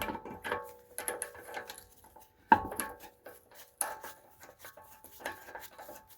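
Metallic clinking and rattling of a socket and lug nuts as the nuts are threaded onto the wheel studs. There are irregular clinks, some of them ringing briefly, and the sharpest comes about two and a half seconds in.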